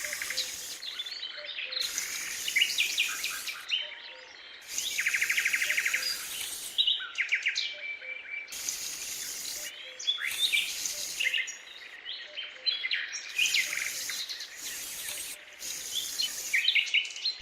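Several birds chirping and singing in short calls and trills, with a fast trill about five seconds in, over recurring bursts of high hiss.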